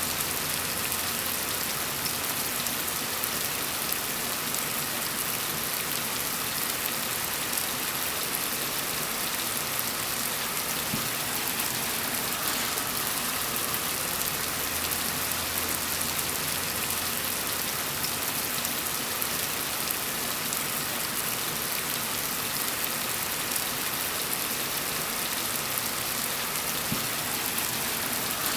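Steady rain falling on a surface, an even hiss of many fine drops with no change in level.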